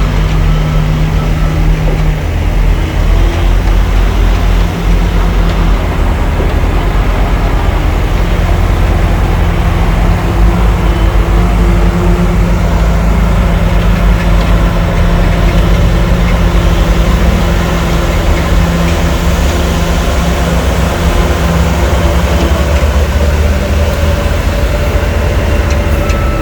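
Heavy diesel engine of earthmoving machinery running steadily, with a continuous low hum.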